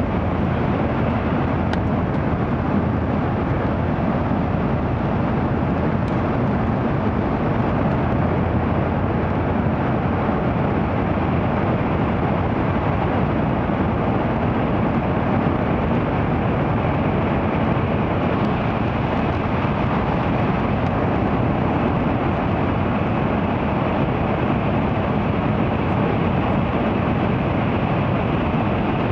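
Steady rumble and rush of an N700 series Shinkansen running at speed, heard from inside the passenger cabin.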